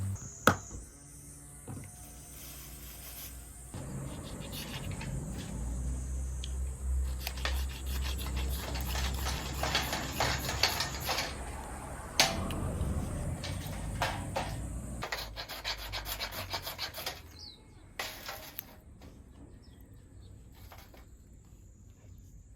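Repeated scraping and rubbing on wood, dense quick strokes that start about four seconds in and stop near the end, after a single sharp click near the start.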